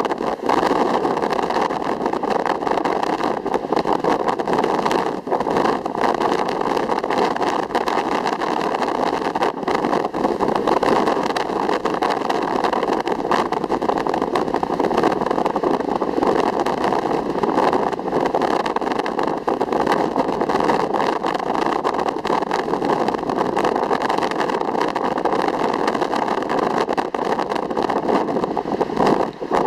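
Steady rushing noise of ocean surf, even in loudness, without distinct breaking waves.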